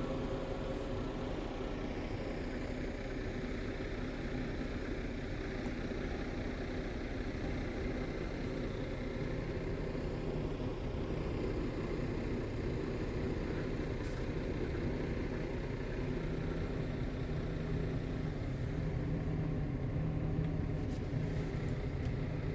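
Scania G tipper truck's diesel engine running steadily, with an even low hum.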